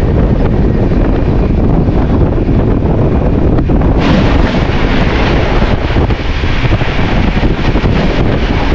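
Moving train heard from its open door: a steady rumble of wheels on rails with wind buffeting the microphone. About four seconds in, the sound turns suddenly brighter and busier, with rapid clatter, as another train passes close alongside on the next track.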